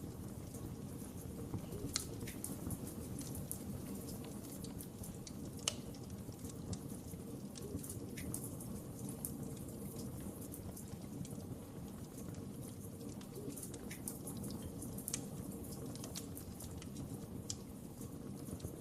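Wood fire crackling, with scattered sharp pops and snaps over a steady low rumble of the flames.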